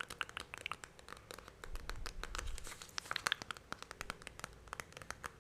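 Close-miked wet mouth sounds: a rapid, irregular run of tongue and lip clicks and smacks.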